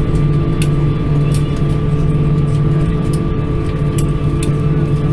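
Cabin noise inside an Airbus A320-214 with its CFM56 engines at low power after landing: a steady hum with a thin steady whine above it, and light clicks and rattles every so often.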